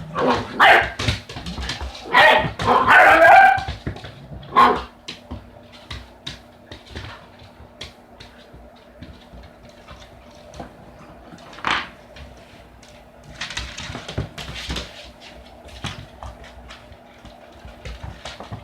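Puppy barking and yipping: a run of loud, sharp barks in the first few seconds, then faint clicks and taps with a single bark about twelve seconds in.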